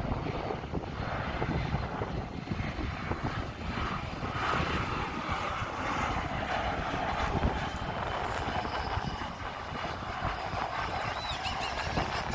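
Airplane engines running as a plane passes: a steady rushing noise that swells and eases, with wind buffeting the microphone.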